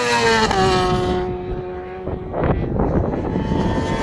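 Superbike racing motorcycles passing at speed, each engine's high-pitched note dropping as it goes by. A second bike comes in near the end.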